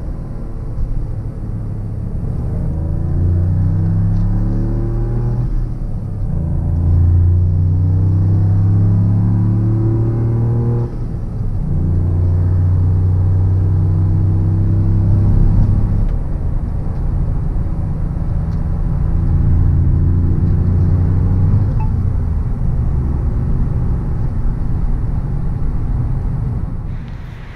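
A Toyota GR Yaris's turbocharged three-cylinder engine heard from inside the cabin, pulling up through the gears. The engine note climbs, drops at a gear change twice in the first half, then holds fairly steady at cruising speed over a low road rumble.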